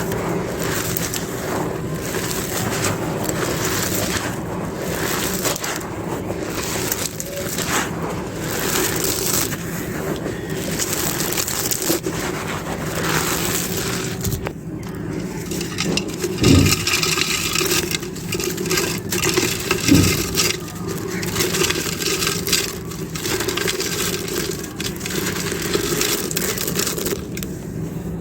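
Fully dry clay being crushed and crumbled, a continuous dense crunching and crackling, with two louder knocks about sixteen and twenty seconds in.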